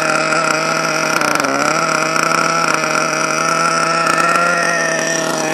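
HPI 4.1 nitro engine in an RC monster truck idling steadily while it warms up, with a brief sag in pitch about a second and a half in. The owner judges it to be running a little rich.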